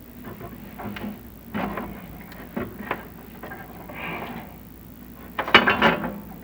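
Chimney inspection camera scraping and knocking against the clay flue tiles as it is lowered down the flue, in irregular rubs and taps, with the loudest cluster of scrapes about five and a half seconds in.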